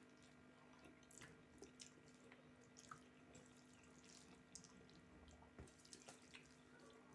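Faint eating sounds: scattered soft, wet clicks and smacks of chewing and handling food, irregular and quiet, over a low steady hum.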